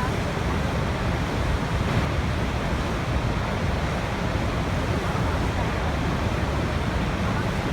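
Waterfall: water falling and splashing in a steady, unbroken rush, heavy in the low end.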